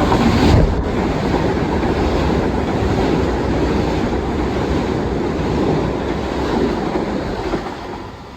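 Long Island Rail Road train passing through the station: a loud, steady rush of wheel and air noise that drops away sharply just before the end.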